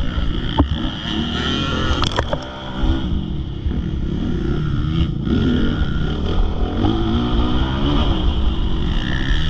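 Motocross bike engine being ridden hard, its revs repeatedly rising and falling as the rider works the throttle and gears. There are a couple of brief sharp knocks near the start.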